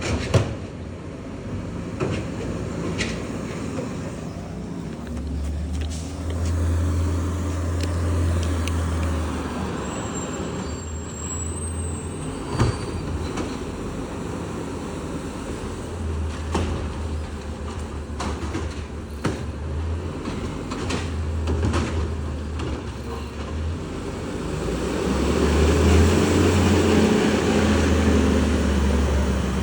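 Garbage truck engine running, swelling louder in several stretches as it revs, with a few sharp knocks. It is loudest near the end.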